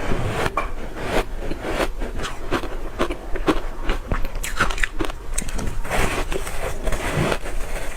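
Crunchy ice chunks coated in matcha powder being bitten and chewed close to the microphone, a dense, irregular run of crunches.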